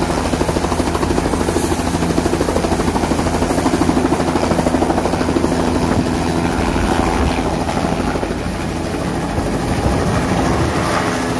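Helicopter running steadily, its rotor blades beating in a fast, even chop over a low engine drone, with a faint high whine above.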